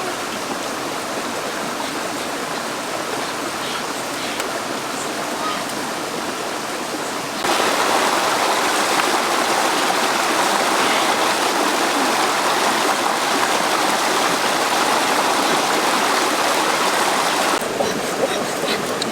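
Steady rushing water, like a stream, that becomes abruptly louder about seven seconds in and drops back near the end.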